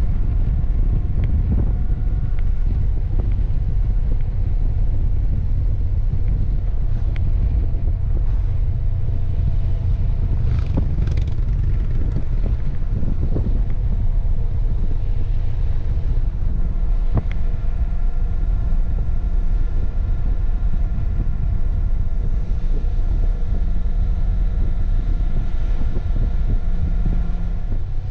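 Motorcycle ridden at a steady cruise: the Honda CB750F's air-cooled inline-four engine drones with a steady note, under a constant rush of wind and road rumble on the microphone.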